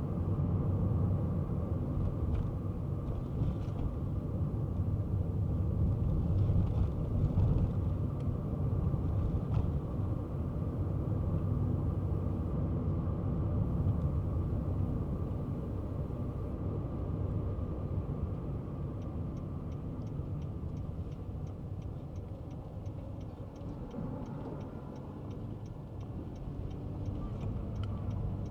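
Kei car driving along, its engine and tyres giving a steady low rumble. From about two-thirds of the way in, a light, regular ticking of the turn-signal indicator, two to three ticks a second, joins it.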